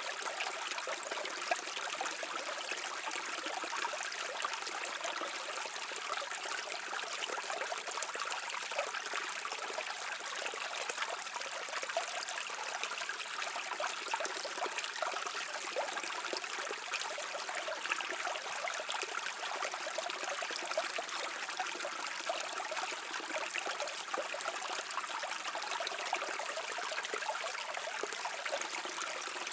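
A brook running over stones, a steady babbling and trickling of water with no lull or change.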